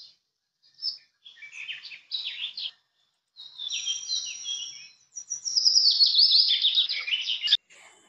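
Birds chirping in short, high calls with gaps between them, then a fast, loud run of repeated chirps over the last few seconds that stops suddenly.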